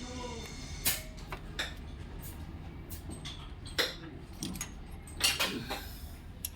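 Scattered metal clinks and knocks of tools and parts being handled, a dozen or so sharp strikes at irregular intervals, the loudest about four and five seconds in, over a low steady hum.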